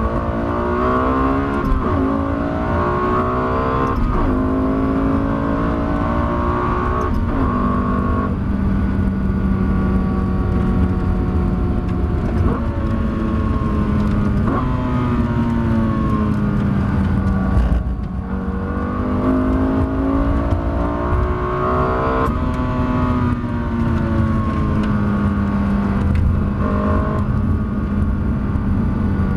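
Lexus LFA's 4.8-litre V10 under hard acceleration. The revs rise and drop sharply at quick upshifts every couple of seconds, then climb more slowly in a long higher gear. A little over halfway through it lifts briefly, pulls again, then eases off with the revs slowly falling.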